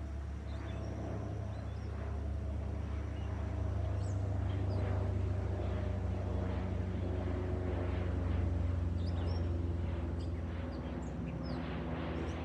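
Cessna 208 Caravan's single turboprop engine and propeller droning steadily as the plane flies over, growing louder to a peak about eight seconds in, then easing off a little. Small birds chirp briefly several times.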